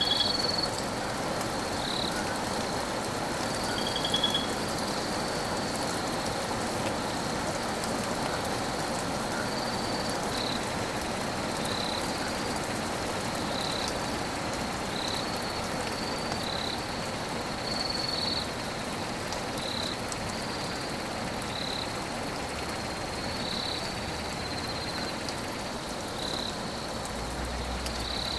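Steady rain falling. Short high-pitched chirps from a small calling creature repeat every second or two.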